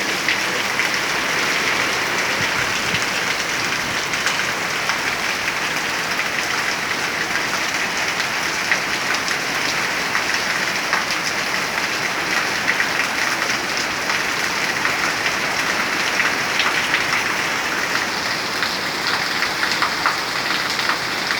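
Heavy rain falling steadily: a dense, even hiss with many small sharp ticks of drops striking close by.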